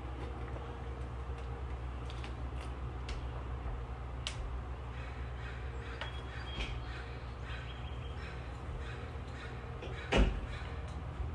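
Birds chirping faintly over a steady low background rumble, then a single loud crow caw about ten seconds in.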